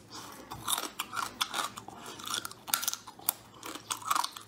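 Close-up chewing and crunching of small raw-marinated crabs, the thin shells cracking between the teeth in a quick, irregular run of sharp clicks.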